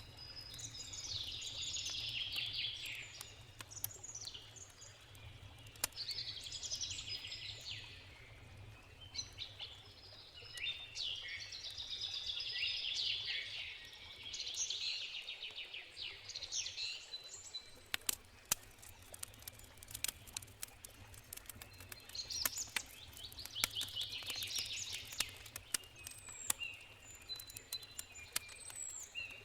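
Birds singing in repeated bursts of chirping song, over the sharp crackles and pops of a wood campfire, which grow busier in the second half, and a steady low rush of river water.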